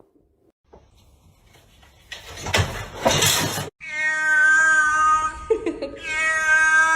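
A domestic cat yowling: two long, drawn-out, steady calls, the second starting about six seconds in. Just before them comes a loud, noisy rush lasting about a second and a half.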